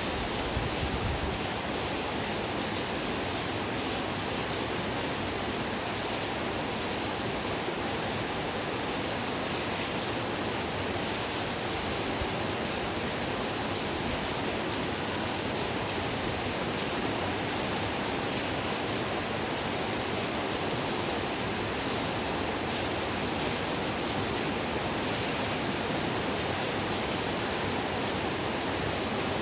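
Heavy rain falling steadily, an even hiss with no breaks. A low rumble under it dies away about a second in.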